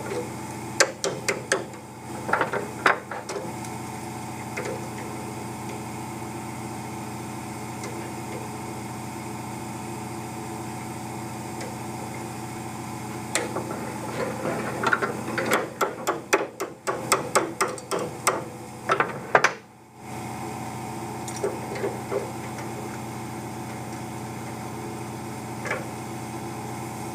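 Hammer tapping on metal leaf-spring clamps: sharp knocks in two bunches, a few about a second in and a quicker run from about 13 to 19 seconds in, over a steady hum.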